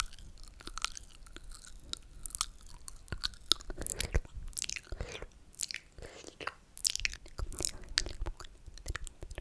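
Close-miked ASMR mouth sounds: wet slurping with many sharp, irregular lip and tongue clicks.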